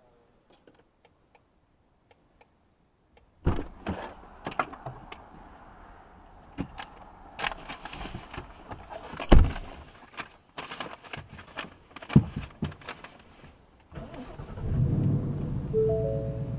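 Keys jangling and clattering with scattered knocks and one heavy thump, after a nearly silent first few seconds. A low steady drone sets in near the end.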